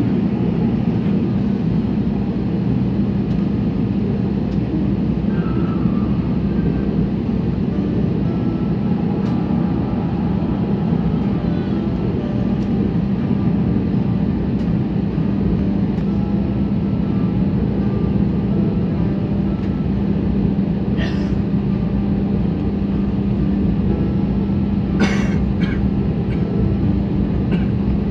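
Steady cabin noise of an airliner with its engines running: an even low drone with a constant hum. Two brief faint clicks come in the second half.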